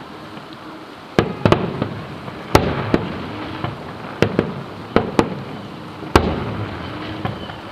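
Aerial fireworks bursting: a quick series of about nine sharp bangs, starting about a second in, some in close pairs, each followed by a rumbling echo.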